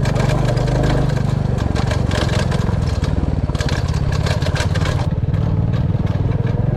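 Royal Enfield Classic 350 single-cylinder engine running steadily while riding, with scattered clattering and knocks over it.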